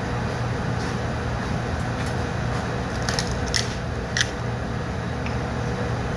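A person eating and handling oysters: a few sharp clicks and small wet sounds a little past the middle, over a steady background hiss and hum.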